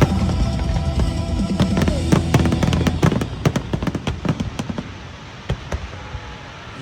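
Fireworks bursting in quick succession, sharp bangs and crackles over music, thinning to a few scattered pops near the end.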